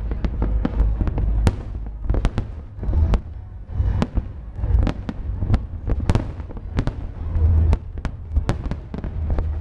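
Large aerial fireworks display: many shells bursting in quick succession, sharp bangs and crackles several times a second over a continuous deep rumble.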